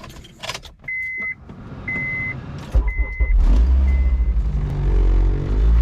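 Car's warning chime beeping about once a second, four times, while the engine is started: a sudden deep rumble a little under three seconds in, then running loud and steady.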